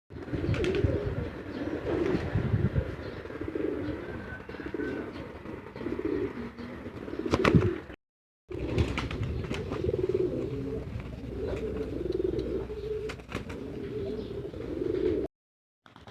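Racing pigeons cooing, a low coo repeated over and over, with a few sharp knocks, the loudest about halfway through. The sound drops out for a moment just after that and then the cooing goes on.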